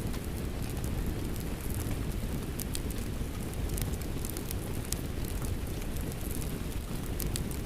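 Steady rain mixed with a crackling wood fire, with a deep even rush underneath and sharp scattered crackles and pops throughout.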